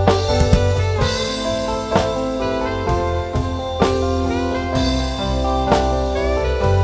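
Band music without vocals: held melody and chord notes over a steady beat, with heavy drum hits every second or two.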